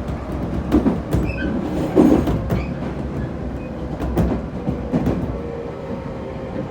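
JR Kyushu 811 series electric train running, heard from inside the carriage: a steady rumble with a string of wheel clacks over rail joints and a steady traction-motor whine that dips slightly in pitch near the end.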